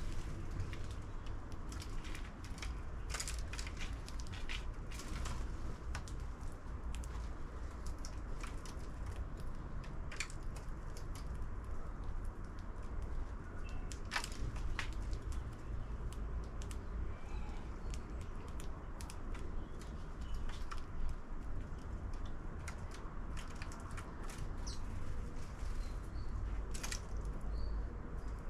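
Sparrows feeding at a 3D-printed plastic bird feeder: scattered sharp taps and clicks, with a few faint chirps, over a steady low rumble.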